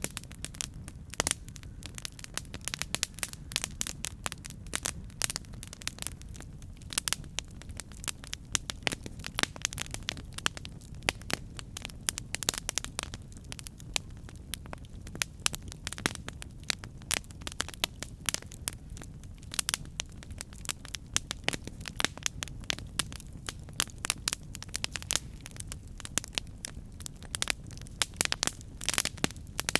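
Campfire crackling: a dense, irregular run of sharp snaps and pops, some much louder than the rest, over a steady low rumble.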